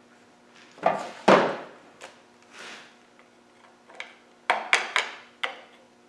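Irregular knocks and clicks of hand tools and small metal parts being handled, with two louder knocks about a second in and a quick run of clicks near the end.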